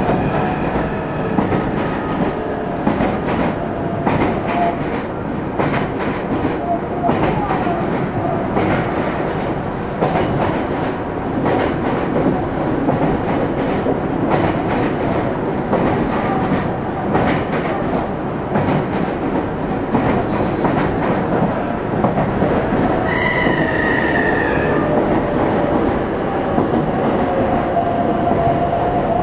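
Meitetsu 300 series electric train (set 317F) running at speed, heard from inside the car: steady rolling noise with repeated clicks from the rail and faint motor tones. About 23 seconds in, a brief high squeal glides slightly downward.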